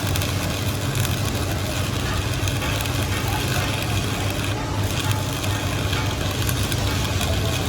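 A machine running steadily, with a constant low hum under an even mechanical noise.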